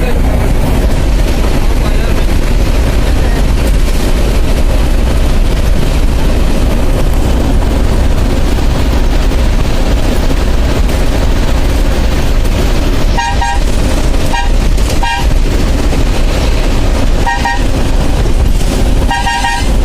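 Steady, loud rumble of a bus on the move. In the second half a vehicle horn sounds in short toots several times, some in quick doubles.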